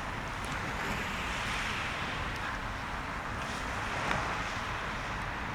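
Wind buffeting the microphone over the steady wash of surf, the wash swelling and easing twice.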